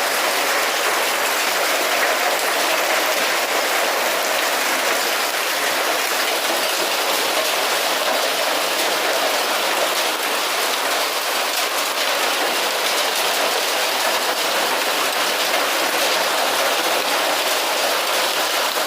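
Heavy rain mixed with hail pouring down: a steady, dense hiss with faint scattered ticks of stones striking.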